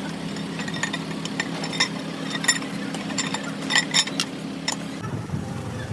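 A steady low engine hum, like an engine idling, with scattered light metallic clinks and taps over it. The hum changes about five seconds in.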